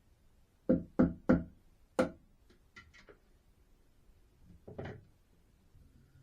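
Four sharp knocks on wood, three in quick succession and a fourth a moment later, then a few light clicks and a softer thud.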